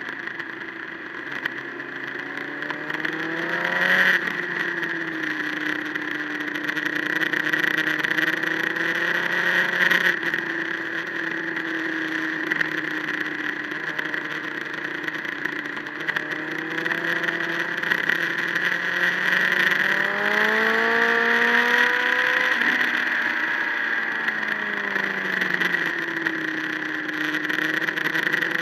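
Motorcycle engine running at road speed, its pitch rising and falling as the throttle is opened and closed, with sudden drops in pitch about four and ten seconds in. Wind rushes steadily over the microphone throughout.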